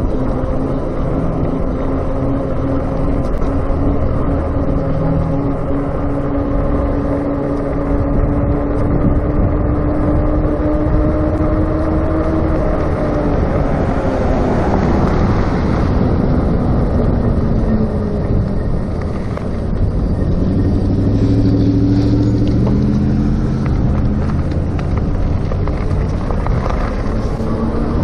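A RadMini electric bike's hub motor whines under power as it rides, its pitch creeping slowly upward and then falling away about halfway through before picking up again. Under it runs a steady rumble of wind and tyres.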